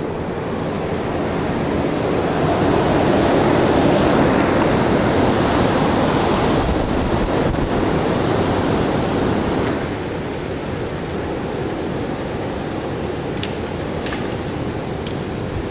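Storm wind from Hurricane Sandy rushing in a long gust that builds over the first few seconds and eases off about ten seconds in, with a few faint clicks near the end.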